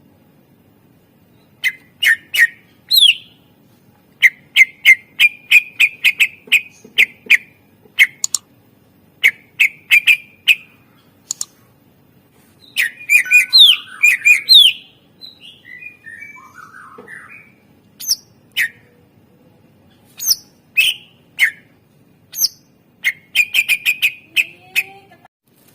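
Green leafbird (cucak ijo) singing: loud, sharp chirps and quick runs of notes in bursts with short pauses, starting about a second and a half in.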